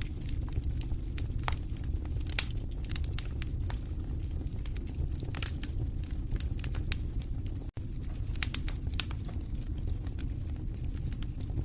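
Wood fire in a fireplace crackling: frequent irregular sharp pops and snaps over a steady low rumble of the flames, with one louder pop about two seconds in. The sound cuts out for a split second about two-thirds of the way through.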